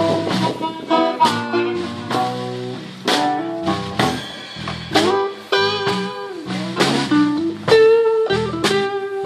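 Blues band playing an instrumental break: a guitar picks single notes, some of them bent upward, over a bass line underneath.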